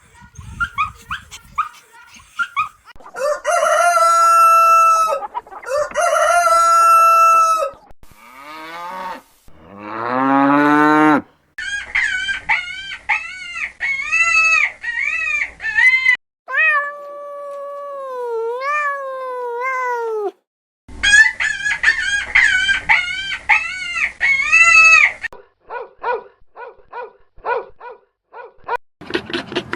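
A run of different farm animal calls, one clip after another, chicken calls among them. The calls change shape through the stretch: two long held calls, a call sweeping steeply upward, then series of short arched calls repeated several times a second.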